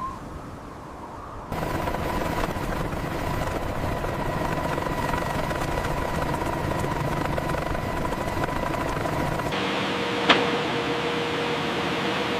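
Steady machine noise with a thin high whine. It gets suddenly louder about a second and a half in, changes abruptly to a lower whine near the end, and has a single sharp click just after that.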